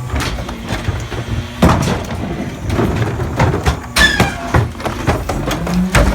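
Pak-Mor rear-loader garbage truck compacting heavy trash: crunching and cracking of material breaking under the packer, with sharp knocks, and a hydraulic whine rising near the end.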